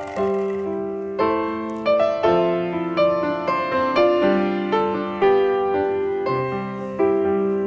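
Background piano music: a slow melody with chords, each note struck and then fading.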